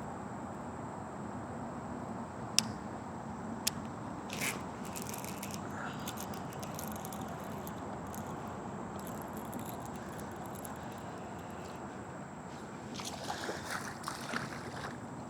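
Water sloshing and trickling around a fishing kayak over a steady outdoor hiss, with two sharp clicks a little over a second apart early on and a few light scrapes and knocks near the end.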